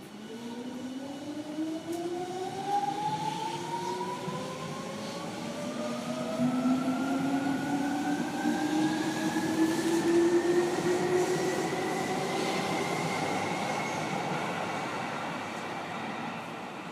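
Seibu 6000 series train's Hitachi GTO VVVF inverter and traction motors as the train accelerates from a stop: a whine of several tones climbing steadily in pitch that levels off in the last few seconds, over wheel and running noise.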